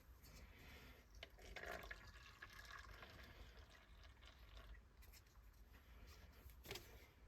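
Near silence, with faint scattered clicks and light handling noises and one sharper click near the end.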